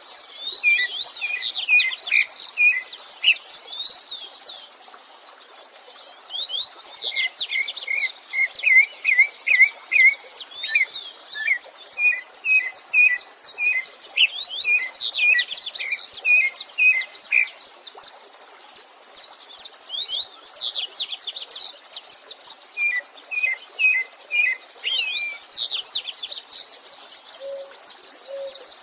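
Several songbirds singing at once in dense, fast, overlapping phrases of quick high sweeps and short repeated notes, over a steady rushing stream. The song drops out briefly about five seconds in, leaving the stream.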